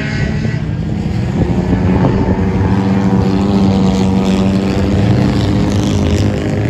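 Race car engine running at a steady, constant speed, its note holding level for several seconds.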